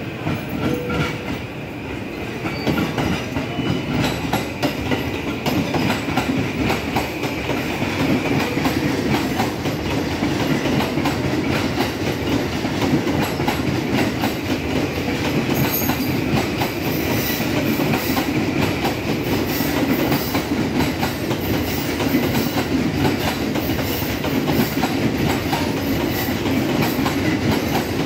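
JR East E235-1000 series electric train, two coupled sets, pulling out and passing close by. Its wheels clatter over the rail joints, growing louder over the first several seconds and then holding steady as the cars go past.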